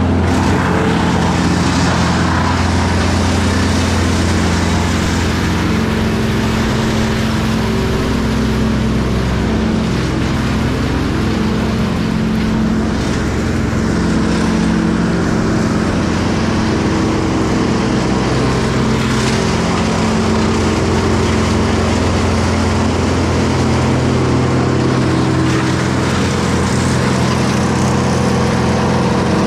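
Diesel engine of heavy equipment running steadily at working speed, its pitch shifting slightly now and then.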